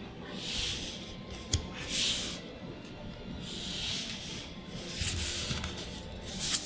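Magic: The Gathering cards sliding against one another as they are revealed one by one, making a series of soft swishes, with a light click about a second and a half in and another near the end.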